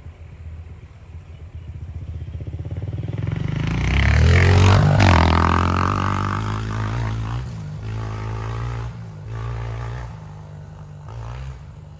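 Honda CRF125FB dirt bike's single-cylinder four-stroke engine being ridden: the revs climb to a peak about four to five seconds in, then ease off, followed by a few shorter bursts of throttle near the end.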